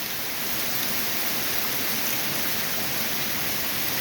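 Steady rain falling in a thunderstorm, with runoff water running down the road.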